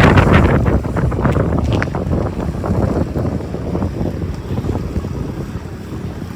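Strong gusty wind buffeting the microphone, a low rumbling noise that is loudest at the start and eases somewhat after about a second.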